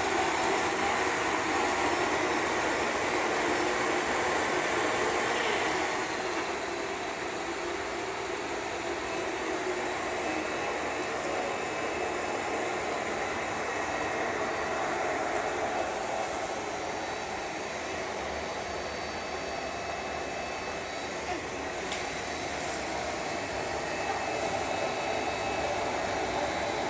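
Vacuum cleaner running with a steady drone, dropping a little in loudness about six seconds in.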